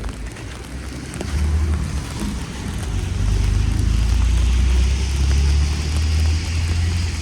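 A motor vehicle passing close on a wet road: a low engine hum builds about a second in, peaks in the middle and eases near the end, with the hiss of tyres on wet pavement swelling as it goes by.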